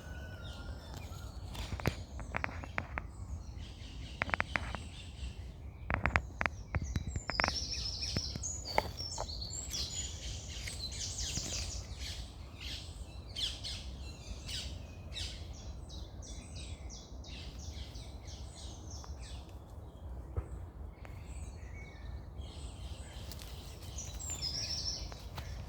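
Several songbirds chirping and trilling in short high phrases over a steady low rumble, with a run of sharp clicks a few seconds in.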